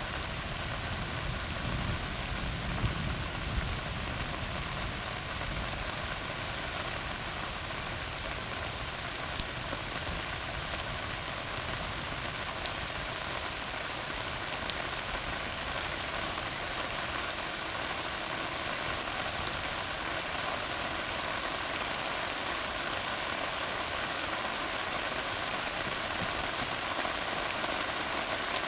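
Steady rain falling on a tarred road: an even hiss with scattered sharper drop splashes. A low rumble underneath fades out within the first few seconds.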